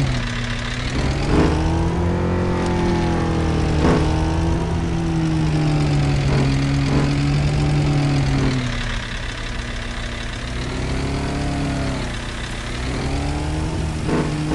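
Vehicle engine running under way, its pitch rising and falling as the throttle and speed change, with a few brief knocks.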